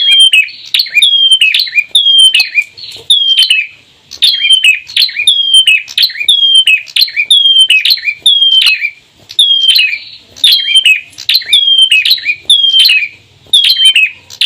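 Bar-winged prinia calling rapidly and persistently: a string of short, sharp, down-slurred notes at about two a second, broken by brief pauses.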